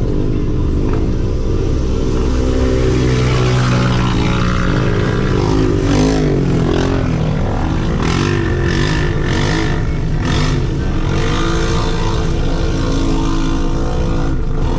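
Off-road vehicle engine running and revving, its pitch rising and falling, with several short rushing noises in the second half.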